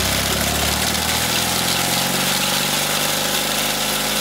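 Small car engine idling steadily, turning the alternator and a big cooling fan through a makeshift fan belt made of zip ties.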